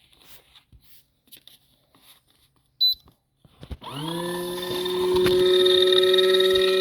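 A folding portable washing machine beeps once as it is started, then about a second later its motor spins up, the pitch rising briefly before it settles into a steady hum.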